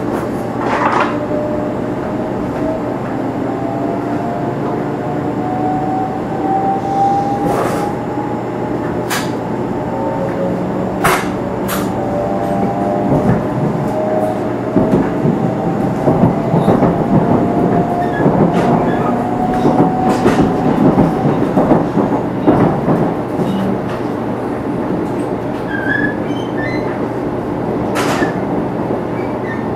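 Running sound inside a 500 series Shinkansen motor car. The Toshiba GTO VVVF inverter and traction motors give several quiet whining tones that climb slowly in pitch as the train gains speed, over a steady rumble of wheels on rail with scattered sharp clicks.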